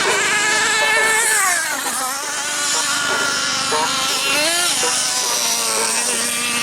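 Engines of radio-controlled model racing boats running on the water, a high buzzing whine that keeps rising and falling in pitch as the throttle changes.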